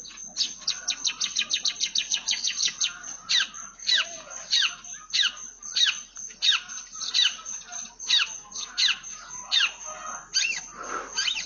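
Long-tailed shrike (cendet) singing with mimicked Eurasian tree sparrow chirps. It opens with a fast run of sharp falling chirps, then goes on with slower chirps about one or two a second.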